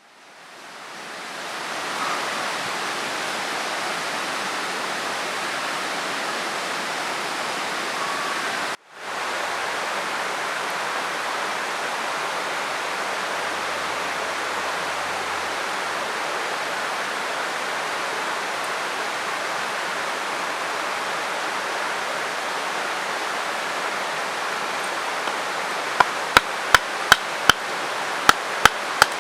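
Mountain river rushing steadily, with an even, full water noise. Near the end, a quick run of sharp knocks sounds over it, about two or three a second.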